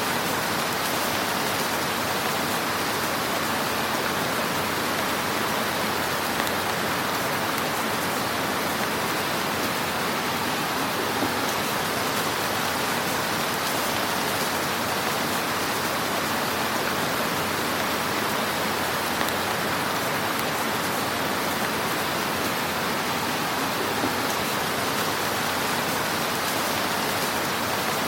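Fire burning in a fireplace: a steady hiss with a few faint pops and crackles.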